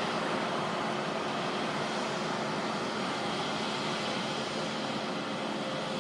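Steady, even background noise with a faint steady hum and no distinct events.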